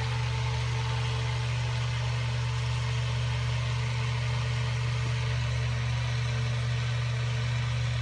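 A steady low machine hum, even and unchanging throughout, like a motor running nearby.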